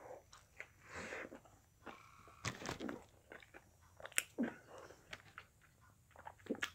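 A person biting into and chewing a jalapeño spicy chicken sandwich: quiet, scattered crunches and wet mouth clicks.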